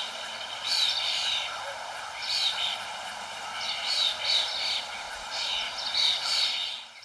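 Songbird singing short, high-pitched chirping phrases, one about every second and a half, over a steady background hiss.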